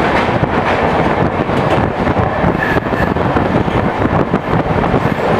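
Passenger train running, heard from on board, with loud, steady wind noise buffeting the microphone over the rumble of the coaches.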